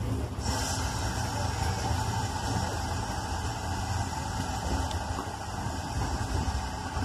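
Steady low rumble of a steam-hauled heritage train running slowly into a station. A steady hiss joins it about half a second in.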